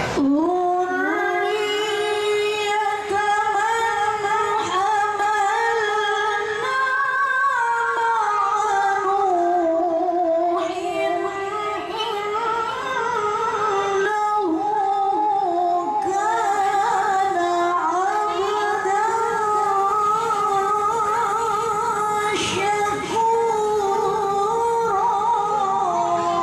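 A woman reciting the Quran in the melodic tilawah style, in a high voice, holding long ornamented phrases with wavering, trilled turns of melody.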